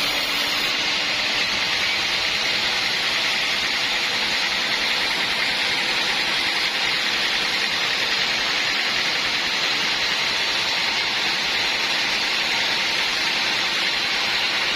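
Sawmill saw running through wood, a steady, even cutting noise with no break.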